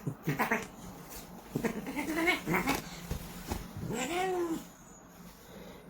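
Cat meowing repeatedly: several short calls, then a longer rising-and-falling yowl about four seconds in.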